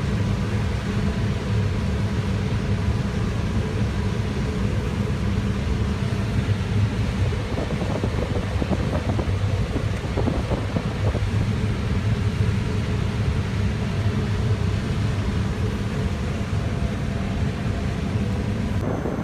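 Combine harvester running while harvesting corn: a steady low drone of engine and threshing machinery, with some rougher rattling from about 8 to 11 seconds in.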